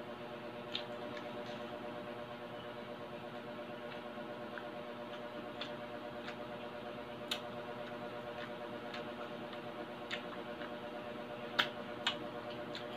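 Mouth sounds of eating crispy fried pork belly: sparse, sharp crunches and wet clicks from chewing the crackling, the loudest pair near the end. A steady low hum runs underneath.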